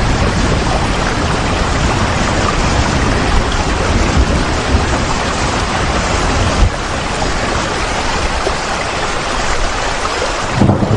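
Steady heavy rain, a dense even hiss over a low rumble, easing slightly about two-thirds of the way through.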